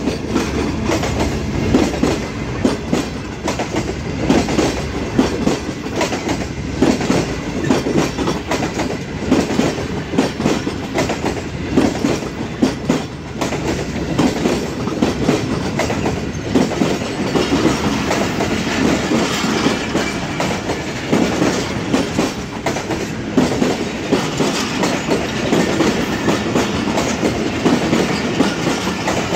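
Karakoram Express passenger coaches rolling past at close range. The wheels clatter over the rail joints in many irregular knocks above a steady rumble.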